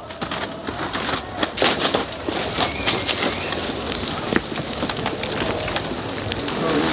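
Dirt bike climbing at full throttle: the engine is almost buried under a dense crackling noise with many sharp clicks, and grows louder near the end.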